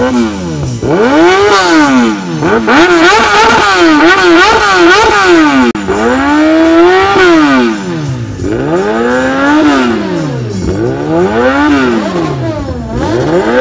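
Sport motorcycle engine revved hard through its exhaust in repeated throttle blips, the pitch climbing and dropping about every two seconds and fluttering near the top for a couple of seconds. A cut about six seconds in switches to another run of revs.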